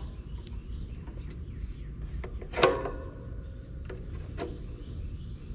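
Light clicks and one louder clank about two and a half seconds in that rings briefly, over a steady low rumble, as a dual run capacitor is handled and clipped to meter leads for a capacitance test.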